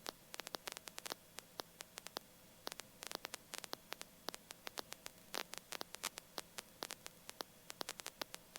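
Crackling static: irregular sharp clicks, several a second, over a steady faint hiss and electrical hum, as on a helicopter intercom and radio audio feed.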